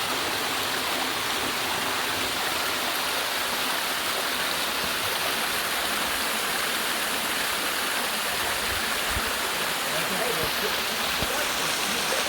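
Waterfall and creek water rushing in a steady, unbroken hiss.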